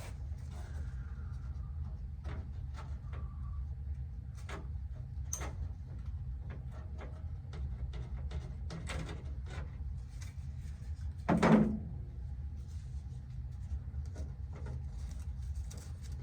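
Scattered light clicks and knocks with one louder clunk about eleven seconds in, over a steady low hum.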